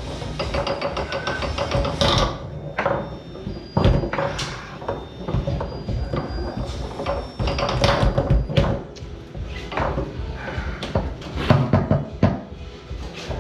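Foosball rally: the ball is struck by the table's men and knocks against the rods and walls, a dozen or so sharp knocks at uneven intervals. Background music plays underneath.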